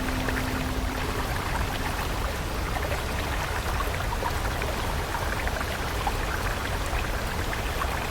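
Flowing water stream running steadily, with a dense patter of small splashes and trickles. A soft held music tone fades out about a second or two in.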